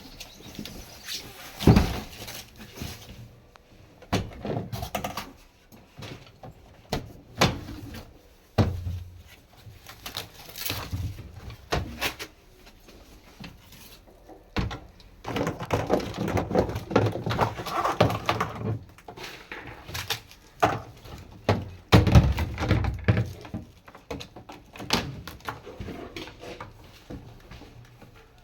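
Irregular thumps, knocks and rustling from a new semi-automatic washing machine and its packaging being opened and handled.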